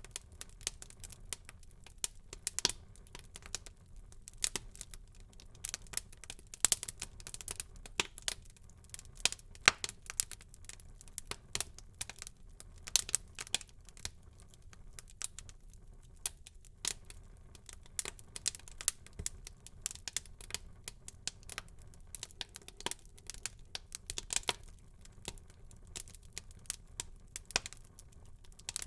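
Wood fire burning in a fireplace, crackling with irregular sharp pops and snaps over a low hiss.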